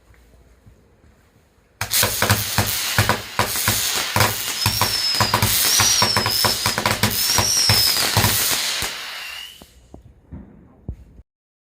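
Fireworks going off: a dense, rapid run of crackling bangs over a hissing spray, with warbling high whistles through the middle and a short falling whistle as it dies away. It starts suddenly about two seconds in and fades out about ten seconds in.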